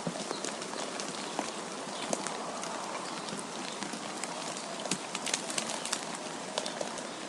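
Steady hiss of wind and falling precipitation, with many scattered sharp ticks of drops or ice pellets striking surfaces. The ticks grow denser in the second half.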